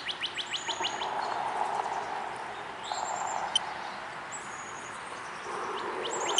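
Songbirds chirping outdoors: a fast trill of repeated high notes, then several short, high, falling whistles, over a steady background hiss.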